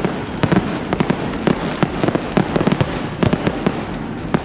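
Fireworks going off: a rapid, irregular string of bangs and crackles, several a second.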